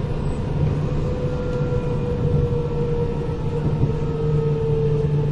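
Inside a Kintetsu 8000 series electric train car underway: a steady low rumble of wheels and running gear, with a thin whine that drifts slowly lower.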